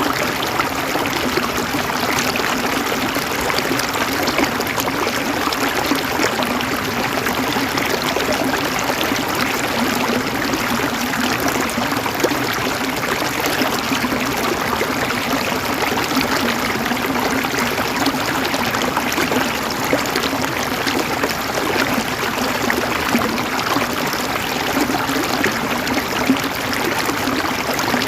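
Stream water running and trickling over rocks: a steady, even splashing with small bubbling crackles.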